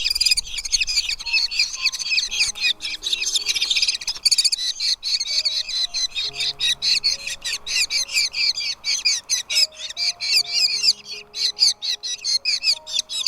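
Nestling birds chirping rapidly and without pause, high-pitched begging calls at several per second, from chicks being fed in the nest, over soft background music of held notes.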